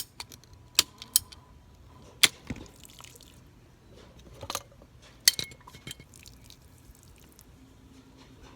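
Scissors cutting through a dried-out plastic irrigation tube: a run of sharp, irregular clicks and snaps of the blades, loudest about two and five seconds in.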